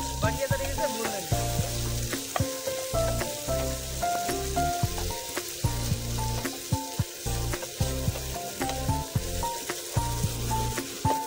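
Sliced onions, tomatoes and green chillies sizzling in hot oil in a frying pan, stirred with a wooden spatula that knocks and scrapes against the pan. Background music with a melody and bass plays underneath.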